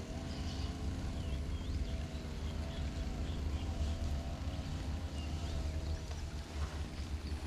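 A motor running steadily at a distance, its hum wavering slightly in pitch over a low rumble, with faint short high chirps scattered through.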